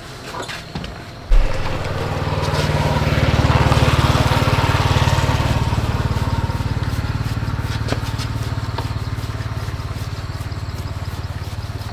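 A small motorbike engine starts abruptly about a second in and runs steadily, swelling briefly with a light rev and then settling.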